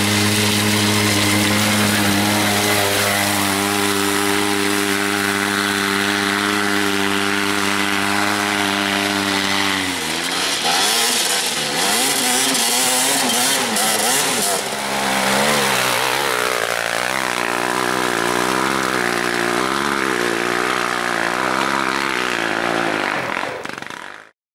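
Small off-road vehicle engines running, held at steady revs for about ten seconds, then revving up and down repeatedly, before the sound fades out near the end.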